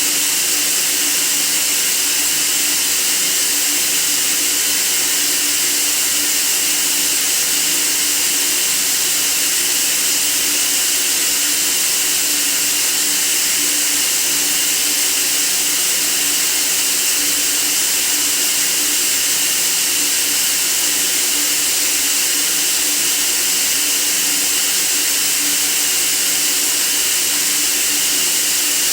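Steady white-noise hiss for sleep, even and unchanging, brightest in the treble, with a faint steady hum underneath.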